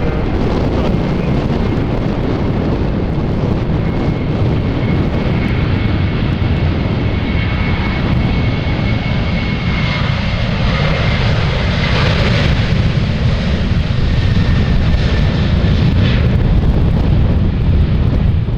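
Airliner jet engines running loud and steady, with a thin high whine that holds and then fades about twelve seconds in.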